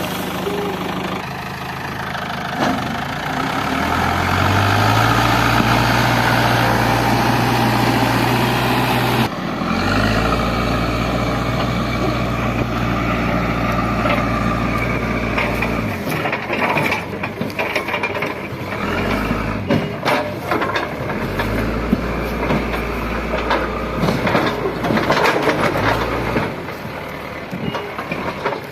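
JCB 3DX backhoe loader's diesel engine running and revving up under hydraulic load, with knocks and scrapes of the bucket working the soil in the second half.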